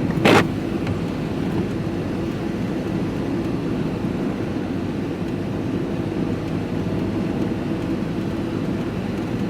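Diesel vehicle driving, its engine and road noise steady from inside the cab, with one short loud sound just after the start.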